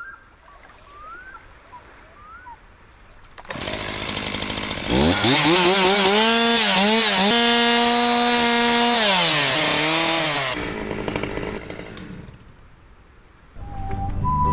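A small petrol engine, chainsaw-like in sound, revs up to a high steady note, holds it with slight wavering for about four seconds, then drops back and dies away. A few faint short chirps come before it, and music starts near the end.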